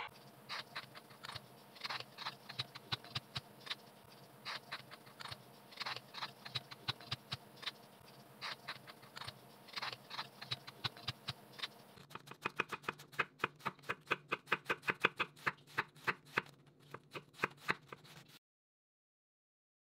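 Chef's knife cutting a raw carrot on a plastic cutting board: irregular clusters of knocks at first, then a fast, even run of chopping strokes from about two-thirds of the way in, which stops abruptly, followed by silence.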